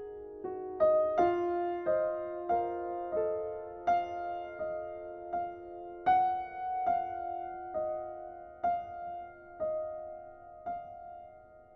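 Slow, gentle solo piano music, single notes struck about once or twice a second and left to ring.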